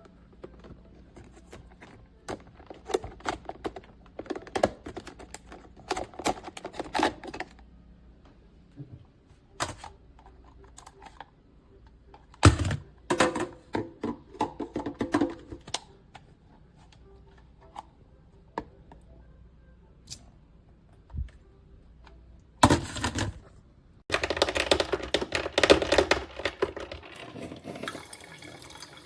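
Irregular clicks, knocks and light clatter, as of objects being handled, with a few louder knocks, then a denser run of noise over the last few seconds.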